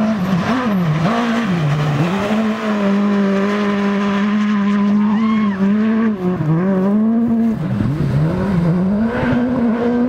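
Rally car engine held at high revs, its note dipping sharply and recovering several times as the driver lifts off and changes gear.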